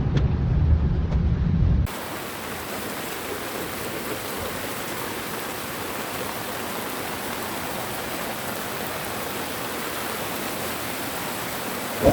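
Low rumbling noise for about two seconds. Then, after an abrupt cut, a steady rushing hiss of flash-flood water.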